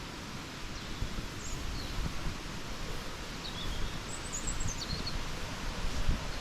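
Outdoor ambience: a steady rushing hiss with uneven low buffeting, and a wild bird calling high. It gives a couple of short chirps about a second and a half in, then a longer twittering phrase around the middle.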